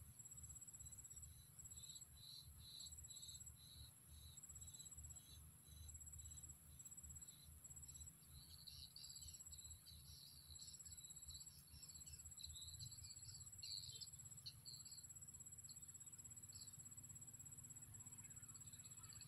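Faint insect chorus: a steady high-pitched buzz, with a cricket trilling in repeated short runs. Softer chirps come about twice a second early on and grow busier and more irregular in the middle.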